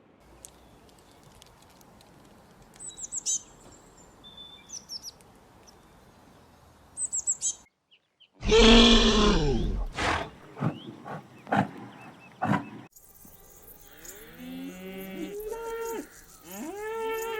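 Faint outdoor background with a few high bird chirps, then after a cut one loud falling moo from a cow, followed by clicks and a run of many short overlapping animal calls near the end.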